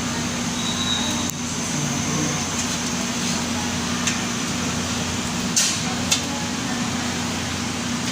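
Steady hum and hiss of a fan or air conditioner running, with a few short clicks and knocks from handling, two of them close together a little past the middle.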